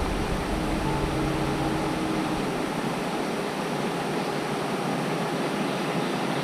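Steady rush of shallow creek water running over rocks, with a low rumble that fades out about two and a half seconds in.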